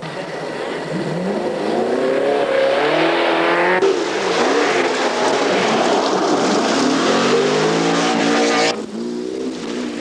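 Rally car engines revving hard through the gears on a special stage, the pitch climbing and dropping again and again. The sound changes abruptly about four seconds in and again near the end as the film cuts between cars.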